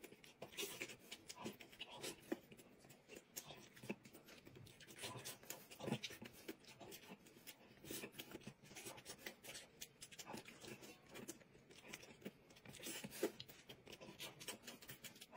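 Faint close-up eating sounds: soft chewing, mouth clicks and lip-smacking from people eating steamed buns with chili sauce, coming in scattered irregular clicks.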